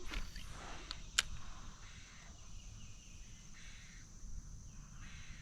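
Insects droning steadily at a high pitch, with one sharp click a little over a second in.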